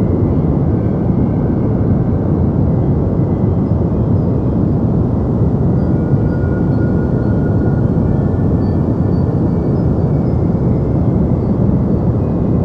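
Deep white noise for sleep: a steady, even hiss weighted toward the low end, with no changes.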